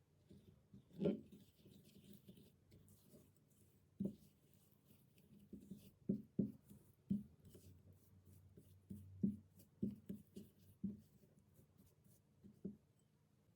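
Kitchen utensil and container handling: irregular light taps and knocks with some scraping, the loudest knock about a second in and a busy run of taps in the middle.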